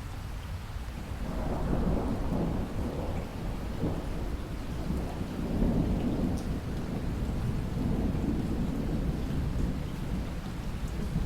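Rolling thunder over steady heavy rain. The low rumble builds about a second in and rolls on in uneven swells while the rain hiss continues underneath.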